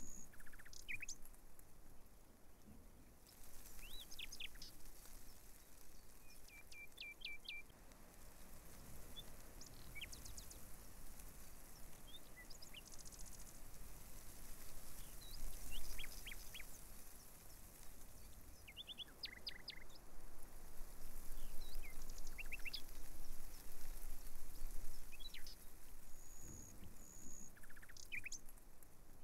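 Small birds chirping, short calls and quick runs of notes scattered throughout, over a steady background hiss.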